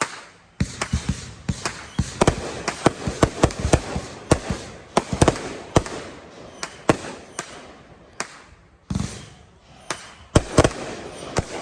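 Fireworks going off: a rapid string of sharp bangs and reports for about six seconds, then scattered bangs, with a heavy one and a quick cluster near the end.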